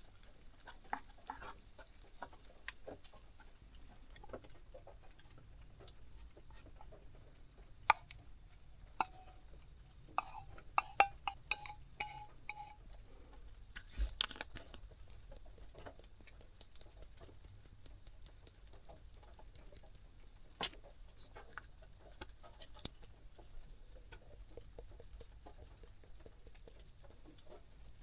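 Scattered light taps and clicks of small objects being handled, with a few short ringing clinks, like glass or metal touching, about ten to twelve seconds in.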